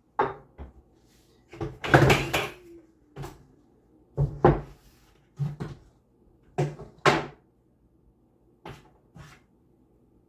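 A run of sharp household knocks and clunks, about ten in all, loudest about two seconds in and again about seven seconds in, of the kind made by cupboard doors and things being handled and set down.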